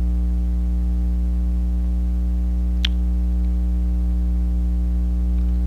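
Steady electrical mains hum with a stack of overtones, with a single short click about three seconds in.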